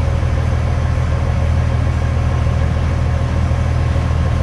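Heavy truck engine idling with a steady, deep, even drone.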